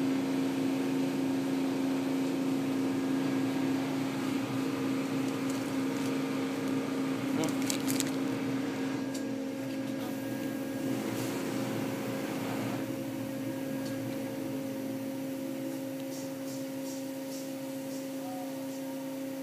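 Automatic car wash machinery running with a steady hum, heard from inside the car, with a few short clicks about eight seconds in.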